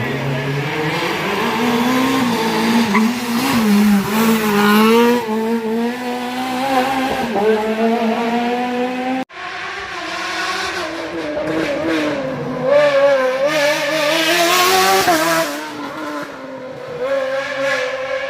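Race car engine revving hard, its pitch rising and falling again and again through gear changes and braking. About nine seconds in it cuts abruptly to another car running the same way.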